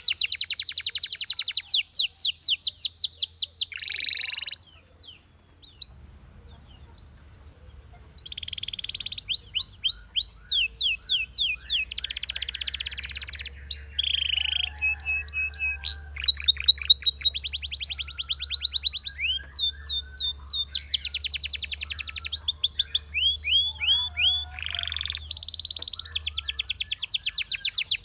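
Belgian canary singing: fast trills and rolls of repeated high notes, with a pause of a few seconds about five seconds in before the song resumes. A faint low hum runs underneath.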